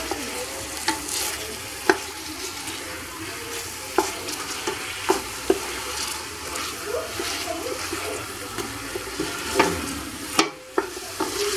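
Chicken and chopped onion frying in oil in a stainless steel pot with a steady sizzle, stirred with a wooden spoon that knocks against the pot every second or two.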